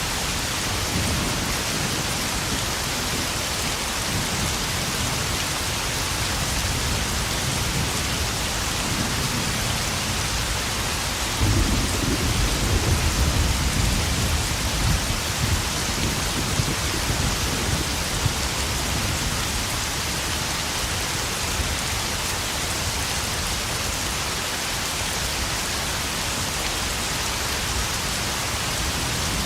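Heavy spring rain falling steadily and drumming on puddles. A low roll of thunder rumbles for a few seconds, starting about a third of the way in.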